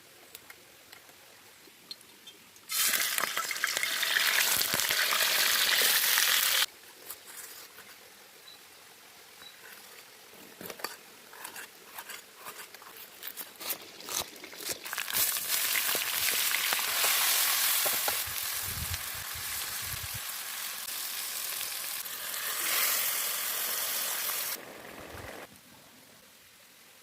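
Food frying in hot oil in a pan, a loud sizzle in two long stretches, with scattered clicks and light knocks of utensils between them.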